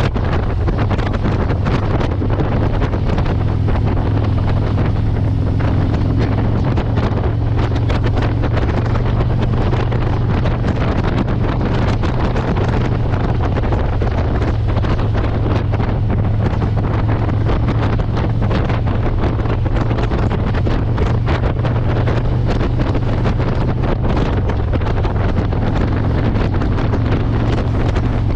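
Motorcycle engine running at a steady cruising speed, with heavy wind buffeting the microphone on the move.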